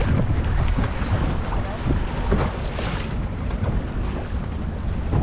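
Wind rumbling and buffeting on the microphone of a camera aboard a moving boat, with the boat's motor and water noise beneath.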